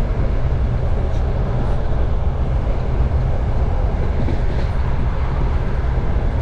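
Single-car passenger train hauled by a 2TE10U diesel locomotive, running along the line: a steady, dense rumble of the carriage on the rails, heard from inside the carriage.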